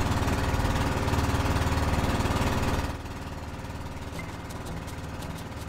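Boat engine running steadily with an even, rapid firing pulse; it drops noticeably quieter about three seconds in and runs on at the lower level, with a few faint clicks near the end.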